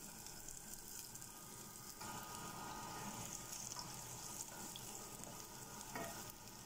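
Minced garlic sizzling in hot oil in a saucepan as it sautés, with chicken frying in the pan beside it. A wooden spatula stirs the garlic from about two seconds in, and the sizzle grows a little louder then; a light knock about six seconds in.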